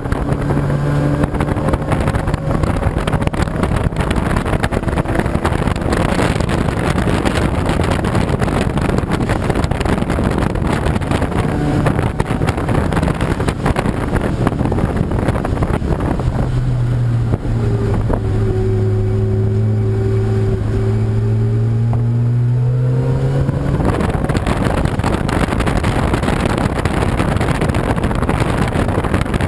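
Race car engines running on the circuit under heavy, steady wind noise on the microphone. One engine note grows loud about sixteen seconds in, dips slightly and rises again, then fades out around twenty-four seconds.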